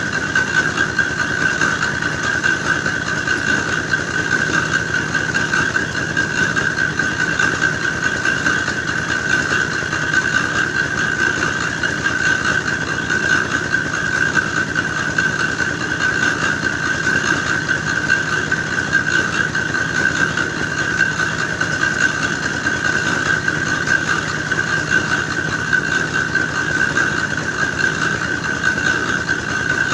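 Engine-driven clay grinding machine running steadily, with a constant high-pitched whine over the machine noise.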